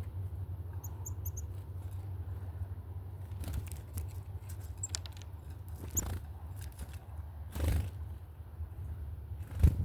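A small bird gives a quick series of four short high chirps about a second in, over a steady low outdoor rumble. Several short knocks and scrapes follow, the loudest near the end.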